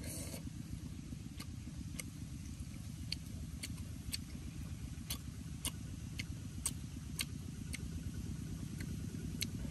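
A man chewing and smacking his lips while eating, with short sharp clicks roughly once or twice a second over a steady low rumble.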